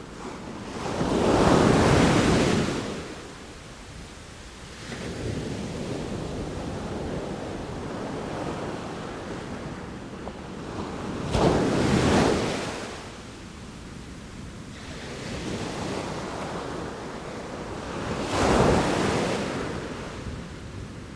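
Sea waves breaking in surf: three louder waves crash and wash out, about 1 s, 11 s and 18 s in, over a steady rush of water.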